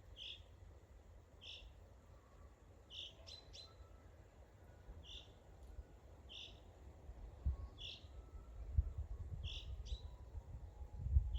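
A songbird repeating one short, high call over and over, about once every second or so. A low rumble builds up in the second half and is the loudest thing near the end.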